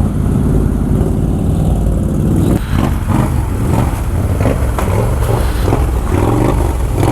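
ATV engine running under throttle, steady at first. From about two and a half seconds in, a rougher, noisier clatter joins it.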